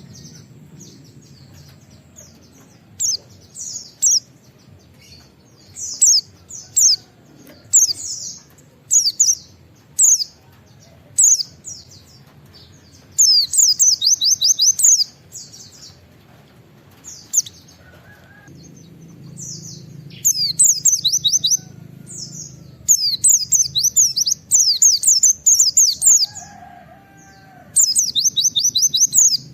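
White-eye (pleci) singing high, quick down-slurred 'wit-wit' notes in the rapid 'nembak' style. It gives short separate phrases at first, then longer fast runs of notes later on.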